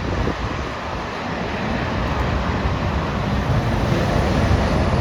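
Jet airliner engine noise: a steady rumble with a roar above it, growing slowly louder.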